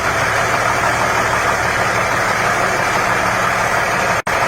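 Truck engine idling steadily just after being started, with a brief break near the end.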